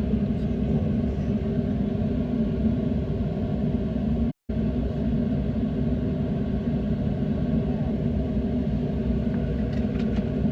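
Steady low rumble of a boat underway, picked up by a phone's microphone, with the sound cutting out completely for a split second a little over four seconds in.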